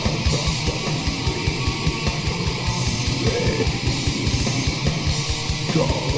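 Black metal music: distorted electric guitars over very fast, even kick-drum hits, about eight a second, with no vocals.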